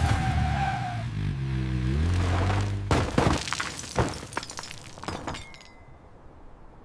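Crash sound effects. A vehicle engine runs loudly, its pitch dipping and rising, then about three seconds in a sharp impact is followed by shattering and clattering debris that dies away.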